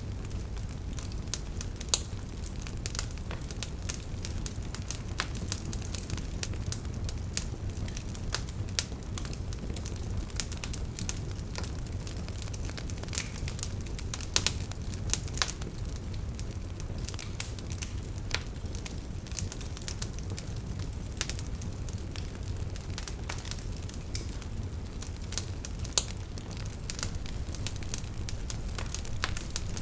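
Campfire burning: wood crackling with frequent irregular pops and snaps over a low steady rumble of flame, a few louder pops standing out.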